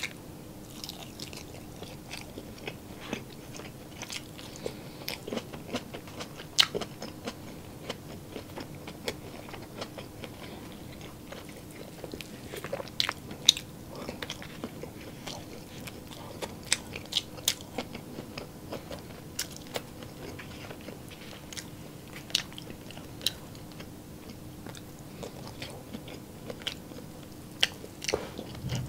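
Mouth sounds of eating: biting into and chewing longganisa sausage and fried rice, with many short sharp wet clicks and smacks scattered throughout.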